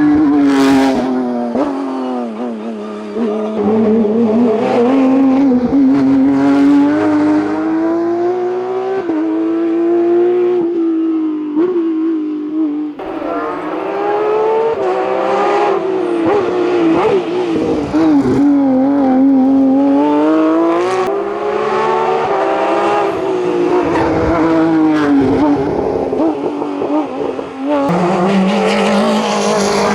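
A racing car's engine pulling hard at high revs, its pitch climbing and falling again and again as it shifts gear and lifts for corners, with sudden drops about thirteen seconds in and near the end.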